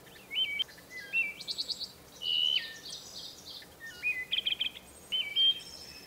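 Songbirds singing: short whistled notes that jump up and down in pitch, with quick runs of high, rapidly repeated notes between them.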